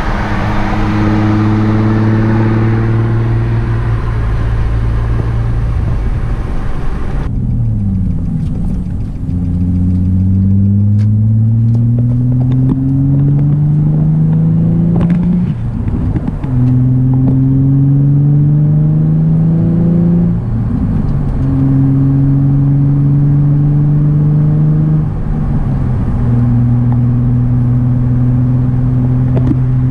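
Nissan 350Z's VQ35DE 3.5-litre V6 through an ISR single-exit catback exhaust, running steadily and then pulling through the gears: the engine note climbs and drops back at three upshifts about five seconds apart, ending in a steady drone.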